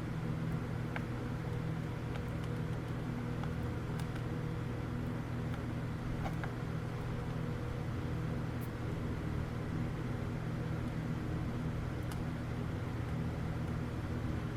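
Steady low electrical hum with a few faint, scattered clicks and taps.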